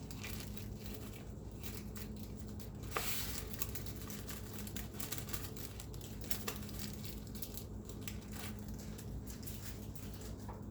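Crinkly material being handled, rustling with scattered small clicks and a sharper rustle about three seconds in.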